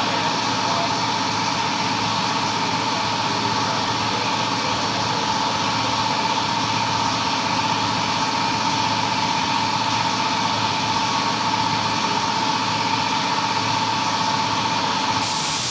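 A machine running steadily with a constant whine over a wide hum, cutting off abruptly just before the end.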